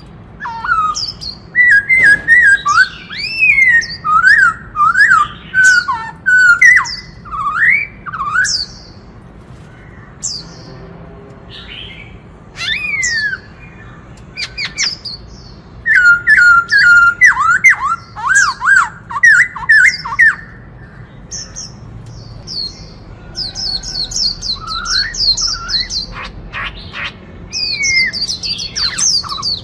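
Black-throated laughingthrush singing loud, rapidly rising and falling whistled phrases in two long bouts, with thinner, higher chirps between them and near the end.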